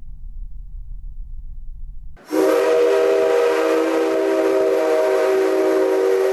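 Whistle of a JNR Class C57 steam locomotive blown in one long blast, beginning about two seconds in, with several tones sounding together as a chord. A low rumble comes before it.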